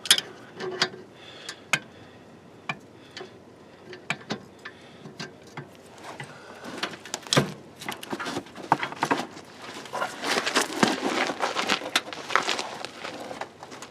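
Hand tools working a brake caliper bolt: scattered sharp metallic clicks and knocks, then a dense run of rapid ticking about ten seconds in.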